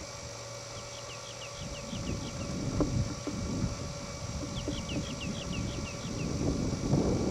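A bird gives two bouts of quick, high descending chirps, about five a second, over a low rumbling noise that grows louder near the end, with a few faint knocks.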